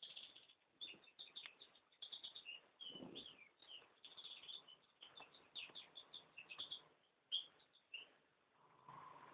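Birds chirping: many short, high chirps in quick runs, faint throughout.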